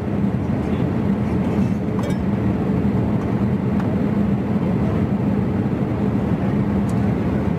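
Steady in-flight cabin noise of a Boeing 787-8 in economy class: a constant rush of engine and airflow noise with a low hum, and a couple of faint clicks.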